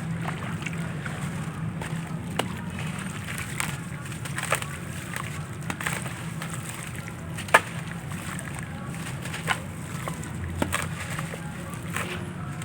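Handmade gritty crumble breaking apart in sharp, irregular crackles, about eight of them, the loudest about two-thirds of the way through, over a steady low hum.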